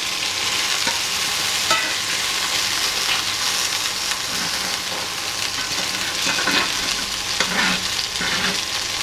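Chicken thighs sizzling and spitting as they fry in hot fat in a pan. From the middle on, the spatter is broken by scattered clicks and scrapes of a utensil turning the meat in the pan.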